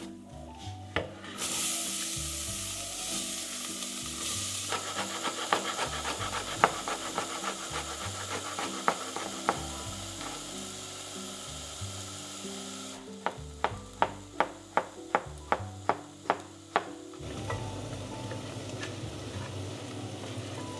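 Food sizzling in a hot pan, with scattered clinks of a utensil stirring it. About 13 seconds in there is a quick run of about a dozen evenly spaced sharp knocks, about three a second.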